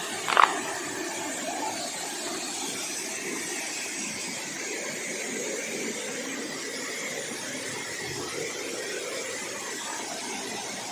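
Steady rush of flowing water from a forest stream and waterfall. A brief sharp sound stands out about half a second in.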